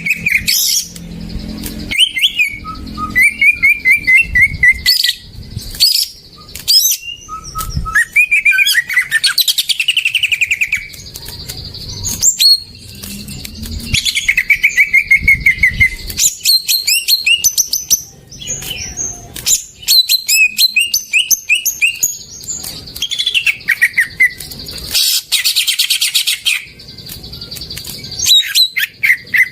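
Cucak ijo (green leafbird) singing loudly: bursts of rapid chattering notes and short falling trills, separated by brief pauses.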